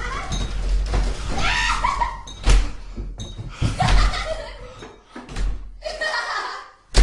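Voices and laughter from a holophonic horror recording, heard as through headphones, with sharp bangs like a door slamming, the loudest about two and a half seconds in and another at the very end.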